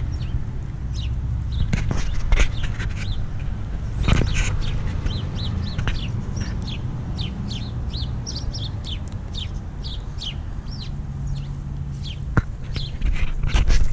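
Small birds chirping, a quick run of short high falling chirps repeating for several seconds, over a steady low rumble with a few knocks and rustles.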